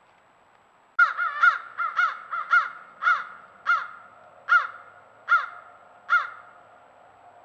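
A large bird calling: a series of about eleven loud calls that starts suddenly about a second in, the calls coming fast at first and then further apart until they stop about six seconds in.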